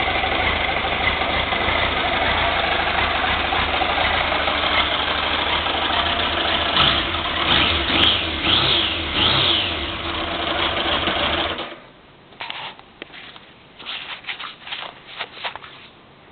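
Triumph Trophy 1200 motorcycle engine test-running: steady running, then the throttle blipped about four times in quick succession, each rev rising and falling. About three quarters of the way in the engine is switched off and stops suddenly, leaving a few faint knocks and rattles.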